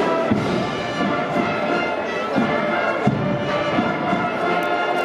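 Holy Week procession band playing a slow march: sustained held notes over drum beats about once a second.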